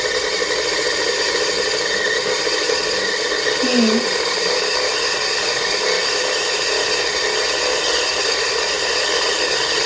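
Janome Memory Craft 6700P sewing machine winding a bobbin: the winder spins the bobbin fast with a steady, even mechanical whir.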